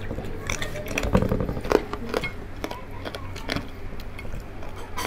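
People chewing crispy fried pork tenderloin and rice, with a scatter of short wet mouth clicks and smacks.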